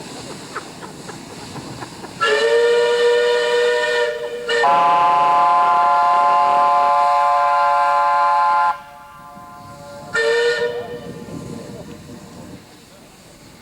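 Narrow-gauge steam locomotive whistles, from small Hunslet quarry tank engines: a blast of about two seconds runs straight into a longer blast of about four seconds at a different pitch, then a short blast near ten seconds in, over a background hiss of steam.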